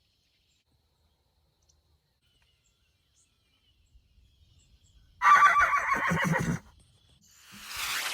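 A horse whinnies once, loudly, for about a second and a half, starting about five seconds in. Near the end a rising whoosh begins.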